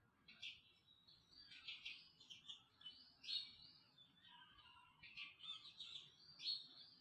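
Faint, high-pitched chirping squeaks from a small animal, repeated many times in quick, irregular succession.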